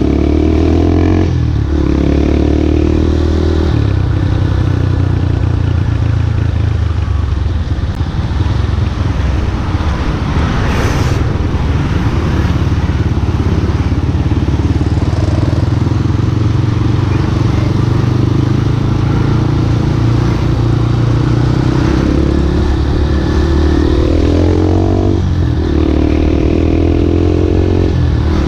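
Yamaha Scorpio Z's single-cylinder four-stroke engine running under way, heard from on board. Its pitch climbs and then drops back at gear changes, about a second in and again near the end.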